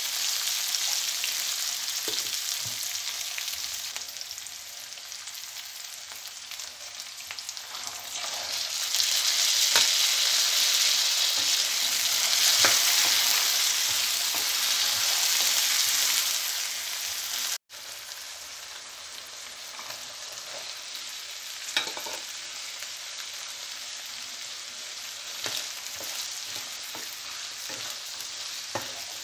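Onions, green chillies and curry leaves, later joined by green peas and diced carrots, sizzling in oil in a non-stick frying pan while a wooden spatula stirs and taps against the pan. The sizzle is louder for a stretch in the middle, breaks off for an instant about two-thirds through, then carries on quieter.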